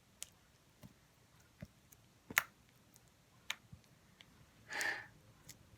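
Clear slime being squeezed and folded by hand, giving off irregular sharp clicks as trapped air pockets pop, the loudest a little over two seconds in, with a brief longer crackle near the end. It is a clear clicky slime.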